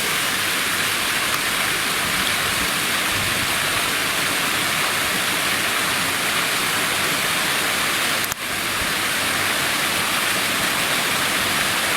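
Steady, loud rushing noise like falling water, with a brief break about eight seconds in.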